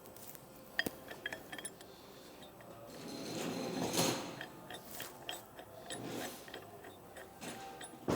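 Light metal clicks and clinks of bolts and washers being fitted and threaded in by hand on a pump's discharge flange adapter, with a brief scraping swell about four seconds in.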